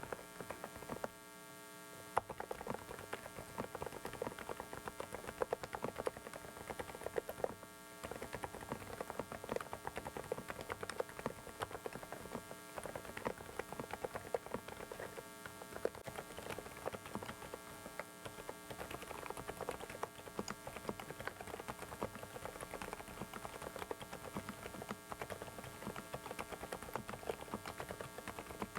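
Fast typing on a Dareu mechanical keyboard: a dense stream of key clicks with short pauses, over a steady electrical hum and noise from a faulty microphone.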